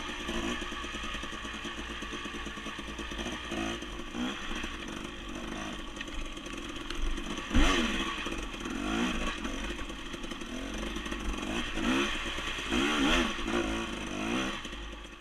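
Dirt bike engine running under load, its revs rising and falling repeatedly as the throttle is worked over rough trail, with clatter from the bike. A single sharp knock about seven and a half seconds in.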